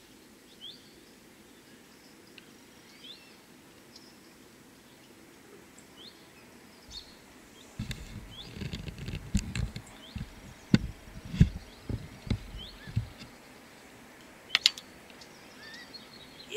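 Small birds chirping faintly in short rising and falling calls. From about eight seconds in comes a run of low knocks and thumps with sharp clicks, loudest around eleven seconds, and a sharp double click near the end.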